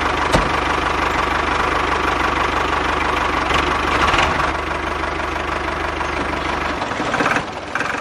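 A tractor engine running at idle with a steady knocking chug; the chugging stops and the sound fades out near the end.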